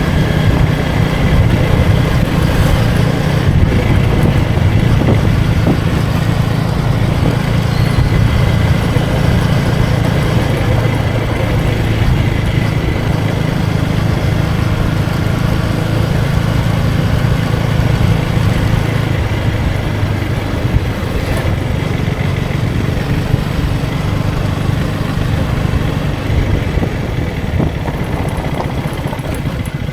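KTM Duke 250's single-cylinder engine running steadily on the move, with wind rushing over the microphone. About two-thirds of the way through, the engine note drops and the sound eases a little.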